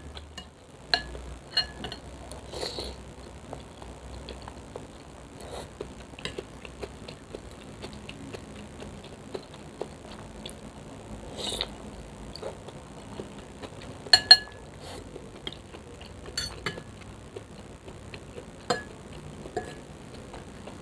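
Eating noodles from a bowl: a utensil clinking against the bowl now and then, with quieter eating noises between. The loudest is a quick pair of clinks about fourteen seconds in.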